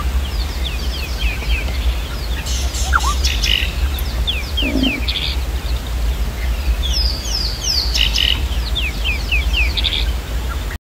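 Birds calling in runs of quick, downward-sliding chirps every couple of seconds, over a steady low rumble.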